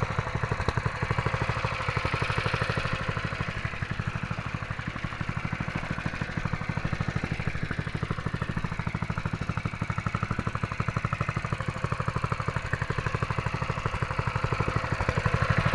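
Honda GX200 6.5 hp single-cylinder four-stroke engine on a go-kart running steadily at low speed, its firing pulses even, growing a little louder near the end.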